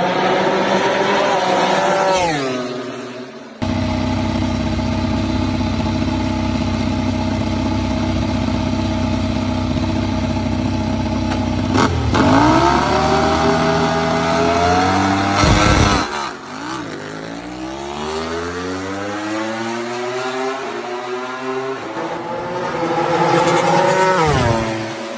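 MotoGP racing motorcycle engines in a series of short clips. One bike's engine drops in pitch as it slows, another holds a steady high note for several seconds, and near the middle bikes rev up and accelerate away with a rising pitch. The sound cuts abruptly between the clips.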